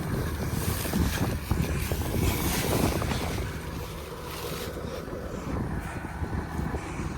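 Farm vehicle engine rumbling on the move, with wind buffeting the microphone.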